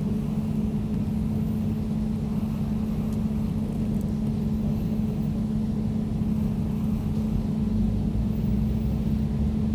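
Air conditioner running steadily: an even, low hum with a steady tone and a rumble beneath, unchanging throughout.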